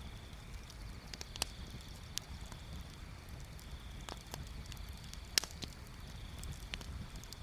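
Wood bonfire crackling, with scattered sharp pops over a low steady rumble; the loudest pop comes about five and a half seconds in.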